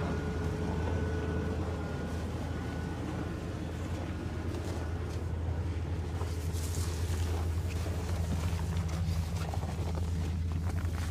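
A steady low rumble, like a running motor, with scattered faint clicks and scrapes over it.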